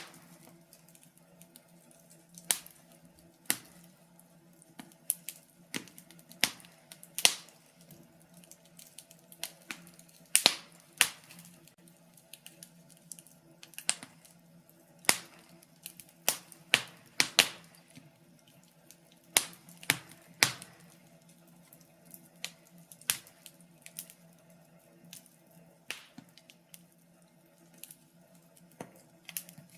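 Fire crackling in a fireplace: irregular sharp pops and snaps, one to a few every couple of seconds, some louder than others, over a faint steady low hum.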